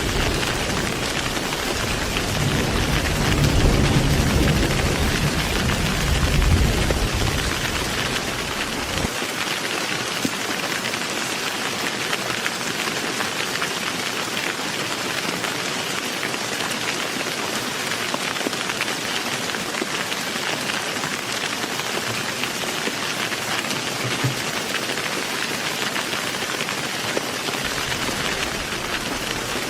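Heavy rain falling steadily with a dense, even hiss. A low rumble of thunder runs under it for the first nine seconds or so, then stops abruptly, leaving only the rain.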